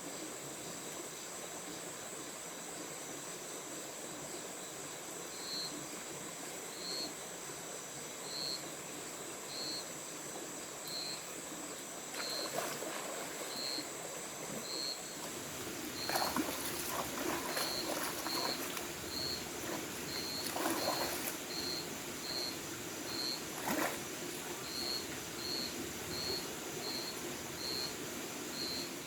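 Rainforest ambience: a steady high-pitched insect drone with a short chirp repeating about once a second. From about halfway through come several sharp knocks and rustles of someone working, loudest a few seconds apart.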